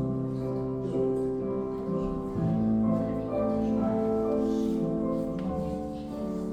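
Classical piano music playing steadily as accompaniment for a ballet class exercise.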